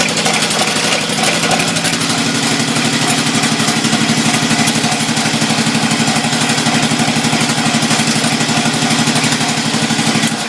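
Engine of a 1968 Sears SS12 garden tractor running at a steady, fast, even beat, then shutting off right at the end. It has been spitting and sputtering, which the owner puts down to stale gas.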